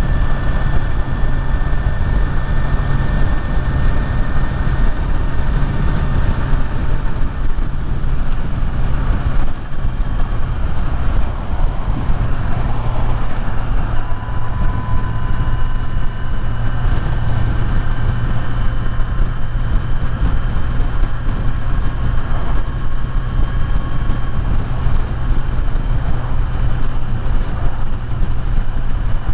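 Kawasaki Z900 inline-four motorcycle engine running at a steady cruising speed, with wind and road noise on the rider's microphone. It holds an even pitch, with no big revs or gear changes.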